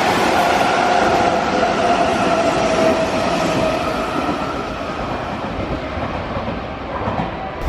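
Hanshin 5000 series 'Jet Car' electric train running past, its motor whine slowly falling in pitch over the rumble of the wheels, easing off toward the end.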